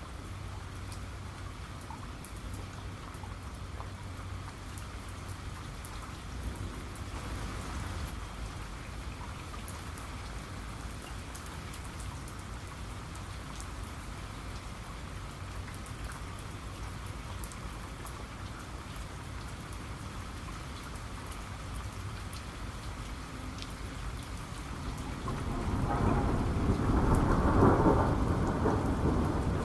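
Steady rain falling, with scattered drops ticking. Near the end a rumble of thunder swells up and becomes the loudest sound.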